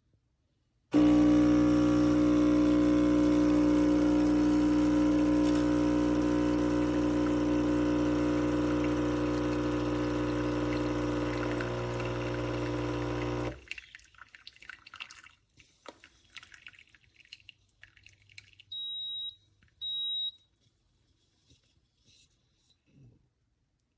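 Neretva 20-bar espresso machine's pump humming steadily for about twelve seconds, then cutting off suddenly. A few seconds later the machine gives two short high beeps.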